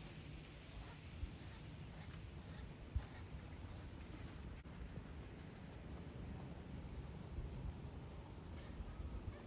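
Crickets trilling in one steady, unbroken high-pitched drone over a low outdoor rumble, with a brief thump about three seconds in.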